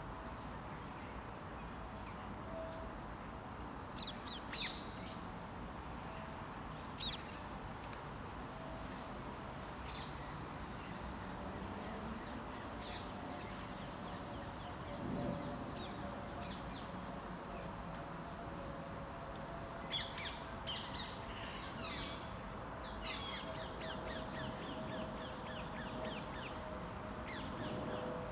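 Outdoor ambience of steady background hum with scattered short bird calls, several coming close together about two-thirds of the way in.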